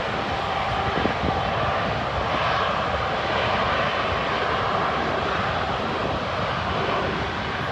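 Boeing 747's four turbofan jet engines heard during its landing: a loud, steady rush of jet noise that holds even throughout.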